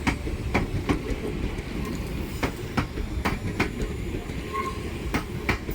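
Train wheels clicking over a rail joint, the clicks coming in pairs as each bogie's two axles cross it, over a steady low rumble of the train rolling past at low speed.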